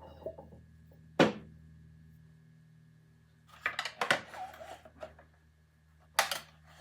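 Metal tools and parts handled at a workbench: a sharp clank about a second in, then two clusters of clicks and knocks near four and six seconds in, over a steady low hum.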